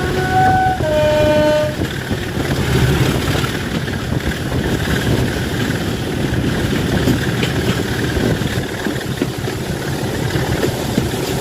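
Diesel locomotive's two-tone horn sounding briefly, a higher note and then a lower one, over the steady low running of its engine. The engine keeps running after the horn stops.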